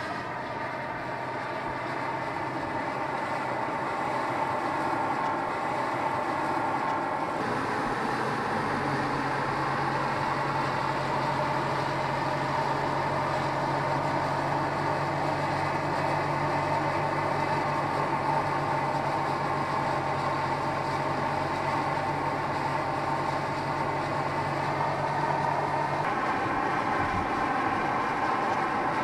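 Volkswagen Scirocco R's turbocharged four-cylinder engine running at a steady cruising speed with tyre and road noise. The engine note holds an even pitch, steps to a new steady pitch about 8 seconds in, and changes again near the end.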